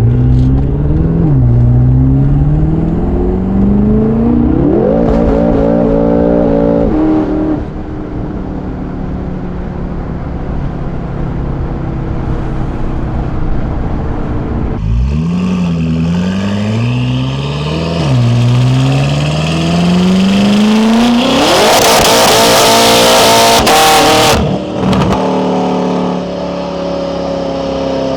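BMW F10 M5 Competition's twin-turbo 4.4-litre V8, breathing through an Akrapovic exhaust, accelerating hard through the gears in two separate pulls, its pitch climbing and dropping back at each upshift. Near the end of the second pull a loud rushing noise covers the engine for about three seconds, then it settles to a lower, steadier note.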